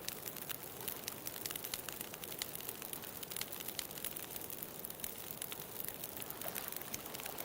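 Wood bonfire crackling, with frequent irregular sharp pops and snaps over a steady hiss.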